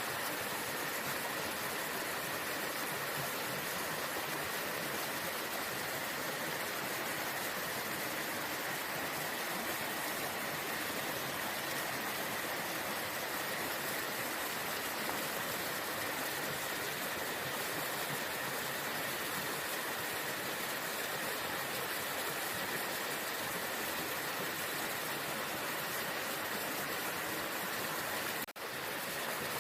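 Waterfall: steady rushing and splashing water. The sound drops out for an instant about a second before the end.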